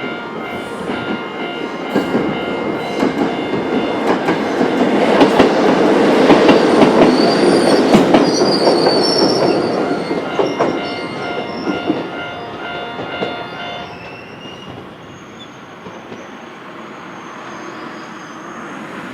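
A Choshi Electric Railway train passes over a level crossing. It swells to its loudest and then fades, with wheels clicking over the rail joints and a brief high wheel squeal. Throughout, the crossing's robot-like electronic alarm sounds a repeating warning tone, which stops about fourteen seconds in.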